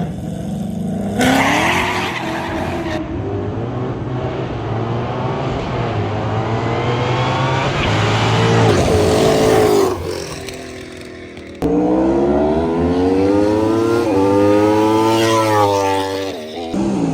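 Street drag racing cars accelerating hard from a launch, engine pitch climbing steadily through each run. The sound cuts abruptly about twelve seconds in to another car accelerating hard, and there may be some tyre squeal.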